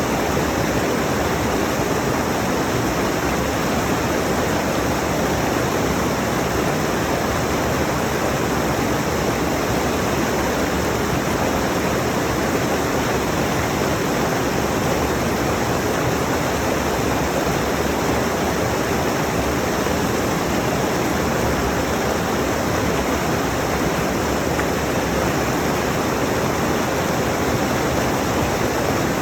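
Rushing mountain stream: water tumbling over rocks in a steady, unbroken rush.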